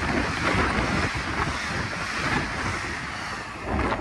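A train passing close at speed through a station: a steady rush of wheels on rails and air, with wind buffeting the microphone. The last of the train goes by near the end.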